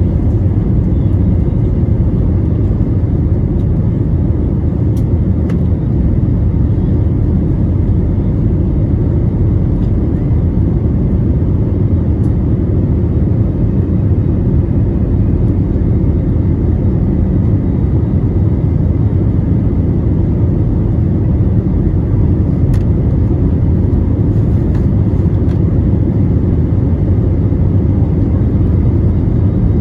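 Airbus A321neo's Pratt & Whitney geared turbofan engines running at high thrust, heard inside the cabin as a loud, steady roar, with faint steady tones over it.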